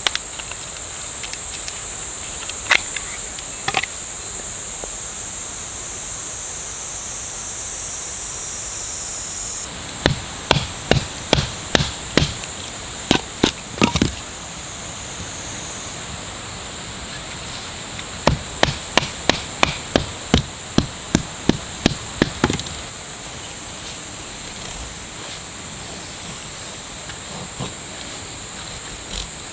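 Two runs of regular chopping strikes, about two or three a second, over a steady high-pitched drone of insects.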